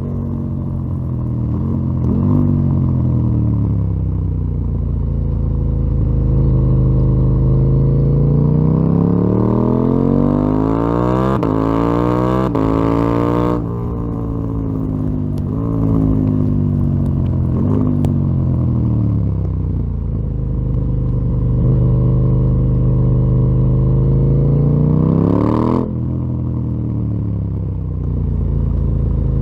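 KTM 890 Duke R's parallel-twin engine through a full Akrapovic exhaust, under way: the engine note rises and falls as the throttle is opened and closed. It makes a long climb in pitch that cuts off abruptly about halfway through, then builds again and cuts off suddenly near the end.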